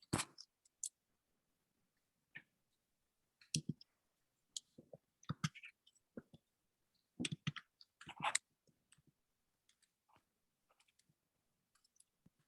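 Irregular clicks and knocks, short and scattered, with a few louder clusters, heard through a video call that cuts to silence between them.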